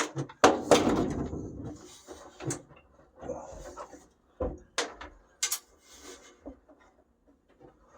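Clunks, clicks and rattles of hand tools and metal parts being handled while a truck's dash is taken apart. There is a loud rattling clatter about half a second in, then scattered sharp clicks and knocks.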